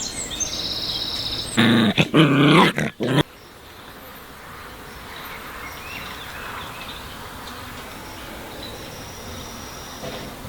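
A loud animal call, about a second and a half long, with a bending pitch. After it a steady high buzzing of insects and faint chirps carries on.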